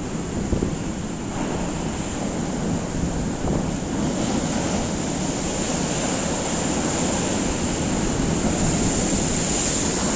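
Rough sea surf breaking and washing on the beach, a steady loud wash, with strong wind buffeting the microphone.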